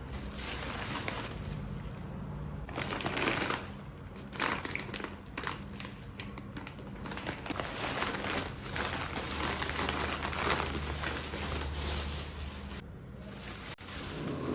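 Crinkling and rustling of packaging handled close to the microphone, with irregular small clicks and crackles.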